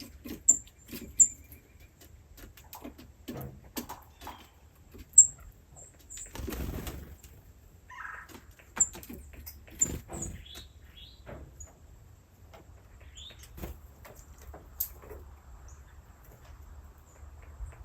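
Birds: several short, very high chirps, a burst of wing flapping about six seconds in, and scattered knocks.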